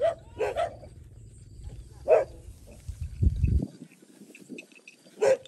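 Dogs barking in short, separate barks while they chase a cow: two quick barks at the start, one about two seconds in and one near the end. A low rumble about three seconds in.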